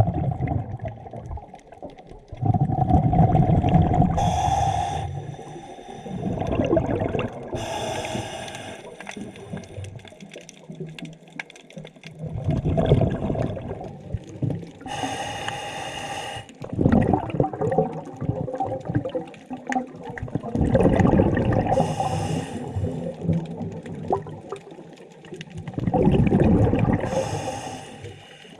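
Scuba diver breathing through a regulator underwater: a short hiss on each inhale, then a longer rumble of exhaled bubbles, repeating every five to seven seconds.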